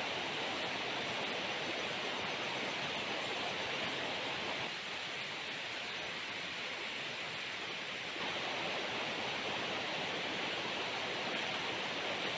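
Heavy rain falling steadily, an even hiss that eases slightly for a few seconds in the middle.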